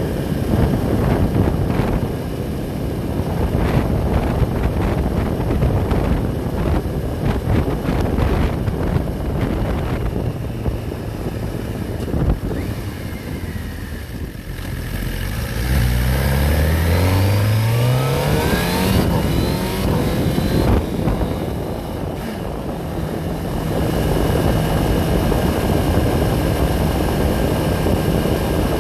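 Motorcycle riding at highway speed, its engine running under a steady rush of wind and road noise. About halfway through, the engine revs up sharply and climbs in pitch as the bike accelerates, then settles into a steady cruise.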